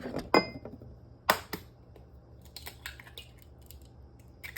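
An egg being cracked against a bowl: sharp taps of the shell on the rim near the start and again about a second in, then lighter clicks of the shell as it is pulled apart.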